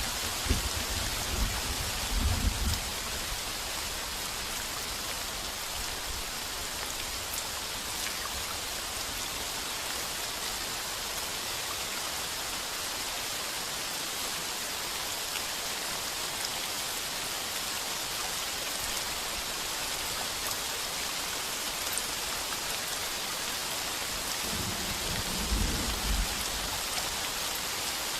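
Heavy rain pounding steadily on a tin roof, with low rolls of thunder rumbling in the first few seconds and again near the end.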